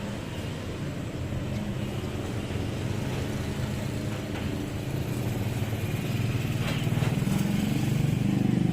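Heavy truck's diesel engine running with a low, rough rumble, growing louder toward the end as it draws closer.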